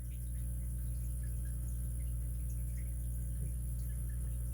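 Steady low electrical hum, with a few faint small ticks scattered through it.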